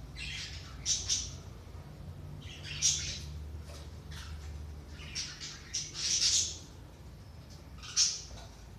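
Budgerigars calling in harsh, scratchy chirps that come in bursts: near the start, about three seconds in, a busier run between five and six and a half seconds, and one sharp call near the end. A steady low hum runs underneath.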